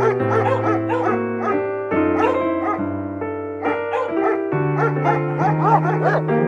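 Background music, with a dog giving a string of short yips and whines, each rising and falling in pitch, over it.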